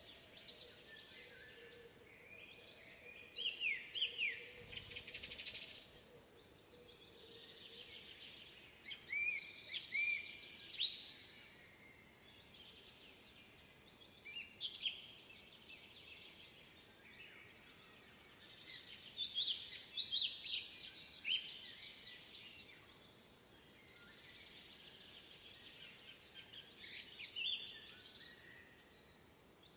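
Songbirds singing in a spring woodland, phrases of chirping and warbling notes coming every few seconds over a faint steady background hiss.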